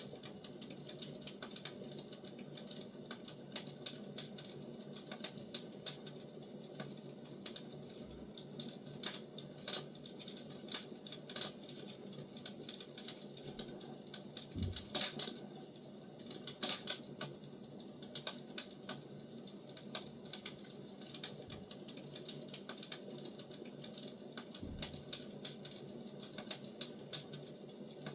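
Firewood burning, crackling steadily with many small irregular pops and snaps and a few louder pops.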